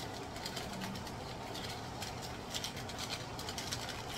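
Chicken pieces sizzling steadily in a pot, with short crinkles from a foil seasoning sachet as it is shaken out over the pot, more of them in the second half.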